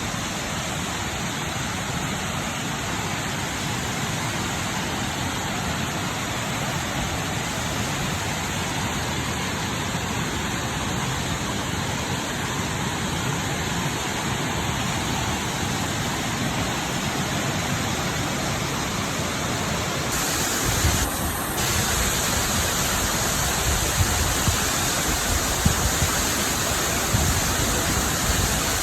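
Waterfall rushing: a steady wash of falling water that grows a little louder and brighter about two-thirds of the way through, with a few brief low bumps near the end.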